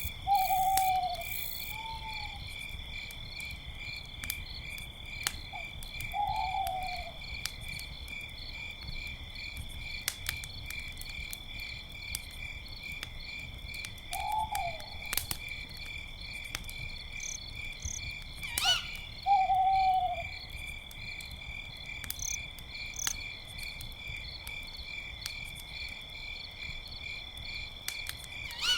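Crickets chirping in a steady pulsing chorus, with owls hooting about five times in short, falling calls, two near the start and others scattered later. A campfire crackles underneath with a few sharp pops.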